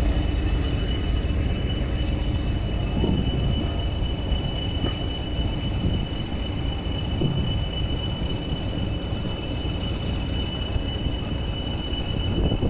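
Heritage railway train running: a steady low rumble with a constant high-pitched tone held throughout.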